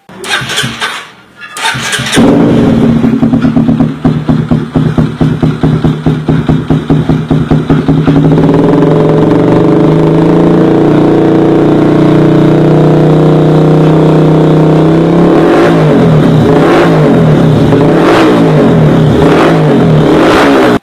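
Honda CBR sport motorcycle engine through an aftermarket full-stainless racing exhaust, starting up about two seconds in and idling loud with an uneven pulsing beat. About eight seconds in it holds a steady higher rev, and near the end the throttle is blipped up and down repeatedly.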